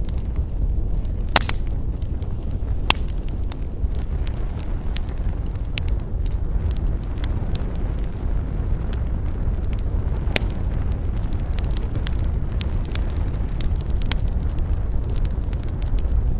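Wood campfire burning, with a low steady rumble under frequent sharp crackles and pops of the burning wood; the loudest pops come about a second and a half in, near three seconds and about ten seconds in.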